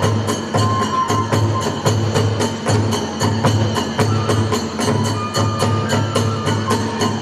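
Hiroshima kagura ensemble music: a big drum beats a fast, steady rhythm of about two and a half beats a second, with hand cymbals clashing on the beats and a bamboo flute holding high notes.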